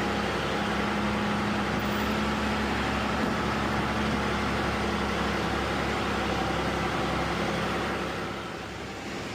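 Truck engine running steadily on the road, with road noise; it gets a little quieter near the end.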